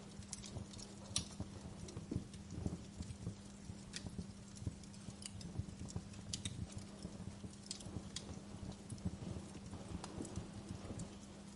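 Fire crackling in a fireplace: irregular sharp pops and snaps, several a second, over a soft low rumble, with a steady low hum underneath.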